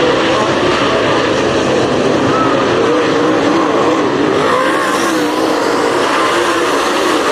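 Several race car engines running together on the track, their pitch wavering up and down as they go around.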